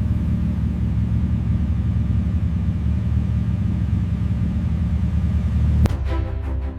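A deep, steady rumble. Near the end it is cut by a quick rising swoosh, and music with sustained notes starts.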